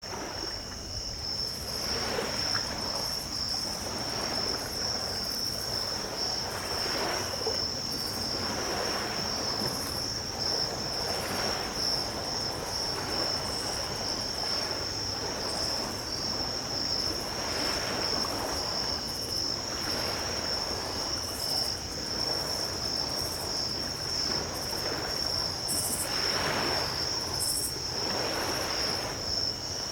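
A chorus of night insects, crickets, trills steadily at one high pitch throughout. Beneath it, small ocean waves wash up on the beach in soft surges every few seconds.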